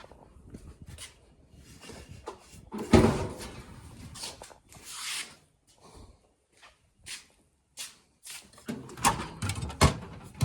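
Handling noises while someone fetches a small pry tool: scattered clicks, knocks and rustles like a drawer or tool box being opened and searched. There is one loud knock about three seconds in and a busier clatter near the end.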